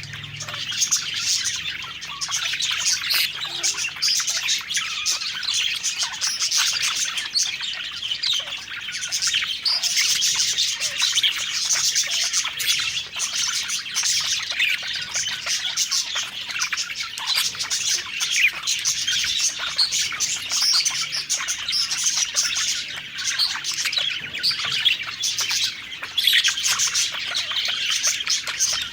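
A flock of budgerigars chirping and warbling continuously, many birds calling over one another in a dense, unbroken chatter.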